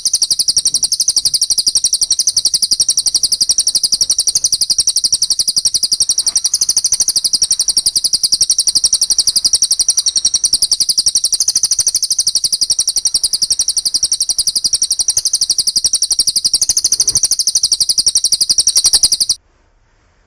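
Songbird tutor recording: a rapid, unbroken, high-pitched chattering call repeated without pause, which cuts off suddenly near the end.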